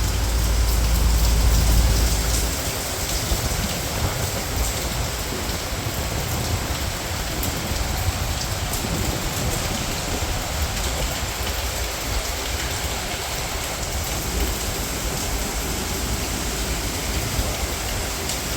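Steady rain falling, with many close drop hits. A deep low rumble underlies the first two seconds or so, then stops.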